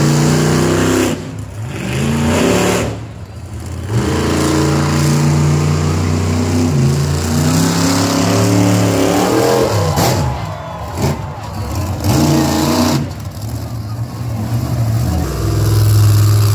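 Mini monster truck engines revving, their pitch rising and falling over and over, with a few short let-offs.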